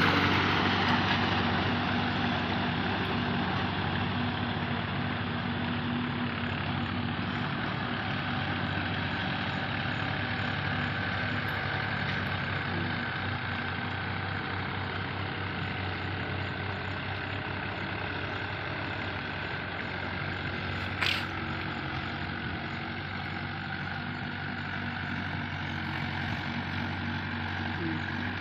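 Mahindra 415 tractor's diesel engine running steadily, with one brief sharp sound about three quarters of the way through.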